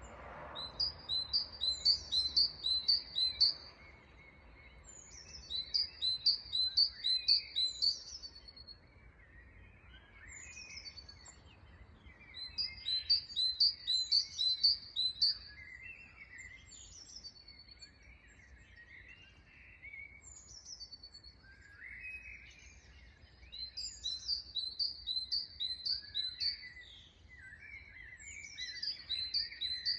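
Birds chirping: one songbird repeats a fast phrase of about half a dozen high chirps, each phrase a couple of seconds long and coming every five or six seconds, with quieter, lower chirps from other birds in between.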